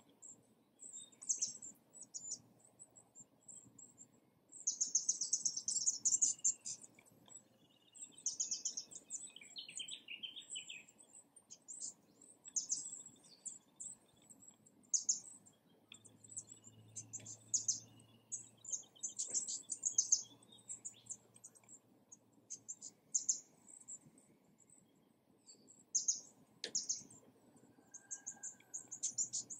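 Birds chirping and calling, with short, high chirps and trills in bursts throughout, over a faint low background noise.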